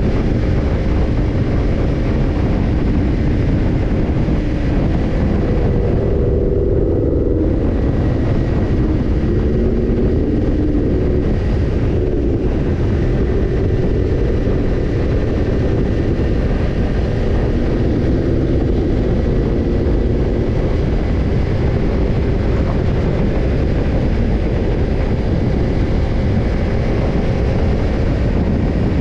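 Kawasaki Ninja 250's parallel-twin engine running through a BEET Japan NASSERT Evolution Type II titanium slip-on muffler while riding, under a heavy steady wind rumble. The exhaust note shifts in pitch a few times as engine speed changes, with a brief softening in the upper range about six seconds in.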